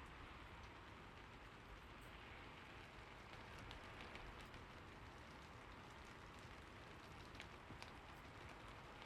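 Faint, steady rain, with a few light drip-like ticks, a cluster of them around the middle and two more toward the end.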